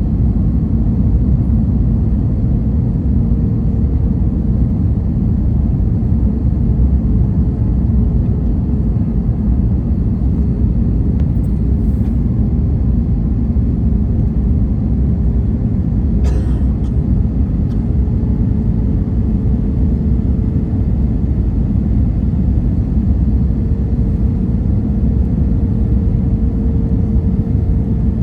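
Airliner cabin noise: a loud, steady low rumble of engines and airflow with a faint steady hum running through it, and one brief click about sixteen seconds in.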